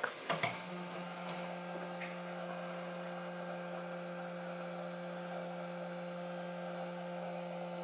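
Steady electric hum from bench equipment, switching on about half a second in, after a few light clicks.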